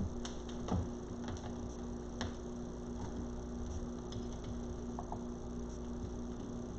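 Steady electrical hum with scattered faint clicks and knocks from handling a wreath on its hanger, the most distinct about a second in and another about two seconds in.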